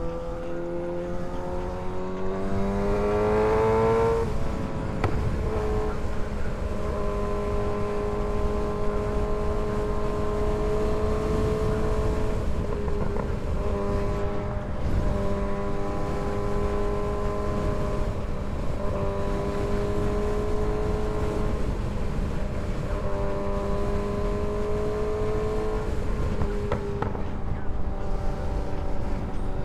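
Kawasaki ZX6R 636's inline-four engine under way, rising in pitch as it pulls for the first four seconds, then holding a near-steady cruising note with slight rises and dips, over a low rushing noise.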